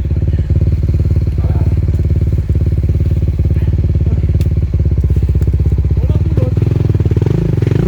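Enduro motorcycle engine running steadily at low revs close by, its note shifting a little near the end.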